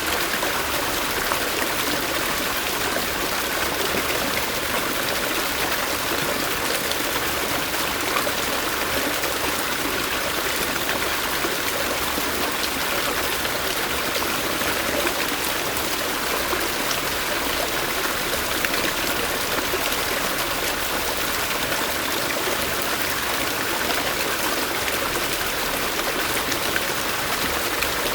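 Clear stream water flowing, a steady, unbroken rush.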